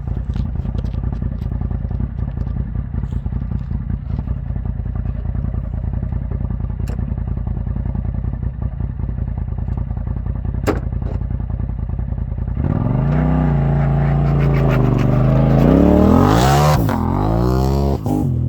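Engine running through a newly fitted aftermarket exhaust: it idles steadily for about twelve seconds, then is revved, the pitch rising and falling through a few blips, highest about four seconds after the revving starts. It is quieter than the owner expected, with a screen resonator in the exhaust.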